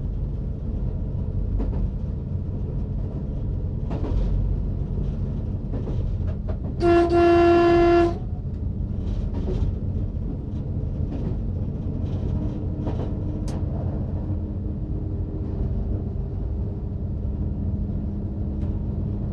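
OSE AEG diesel multiple unit running at speed with a steady low rumble and occasional faint clicks from the track. About seven seconds in, its horn sounds one steady blast of a little over a second.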